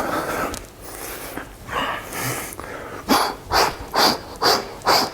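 Rhythmic heavy panting, about two breaths a second, after some irregular snorting breaths.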